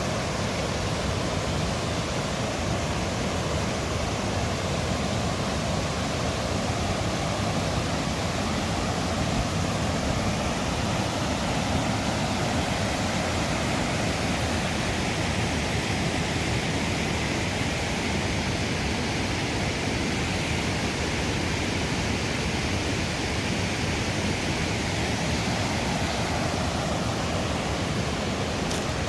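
Rushing water: a steady, unbroken rush with no let-up.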